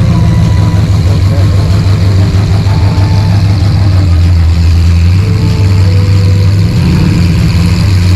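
A car engine idling, loud and steady, with a deep low rumble.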